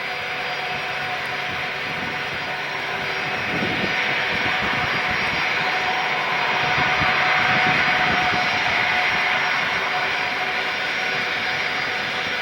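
Four-engine jet airliner at takeoff power: a broad jet rush with steady whining tones, swelling to its loudest a little past the middle and then easing slightly.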